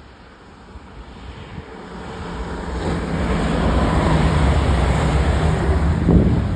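A train approaching and passing close by: a rumble with a steady low hum that builds over about three seconds, peaks about six seconds in, then eases off. Wind buffets the microphone.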